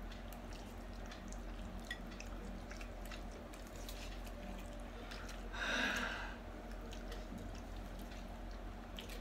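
Quiet, wet chewing of a mouthful of noodles, with faint scattered clicks. About six seconds in comes a short, louder breathy rush.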